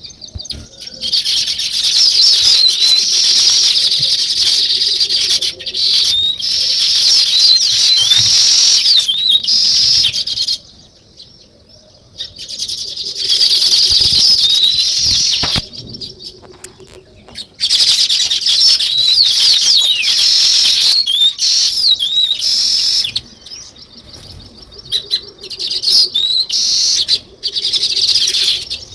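A flock of weaver birds chattering, many high chirps overlapping in long dense bouts broken by a few short lulls.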